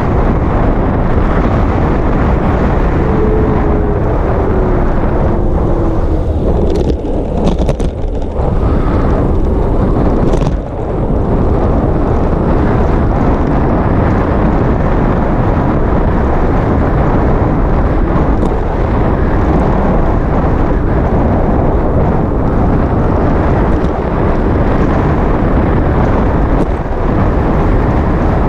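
Steady wind rumble on the microphone of a GoPro riding along on a moving bicycle, with a couple of brief drops in the noise.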